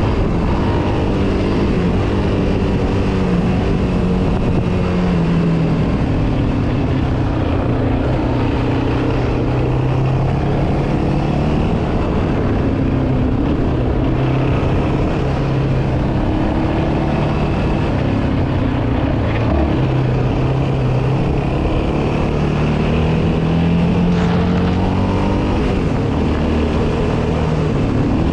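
Yamaha Raptor 700R quad's single-cylinder four-stroke engine running under riding load, its pitch rising and falling again and again as the throttle opens and closes and the gears change.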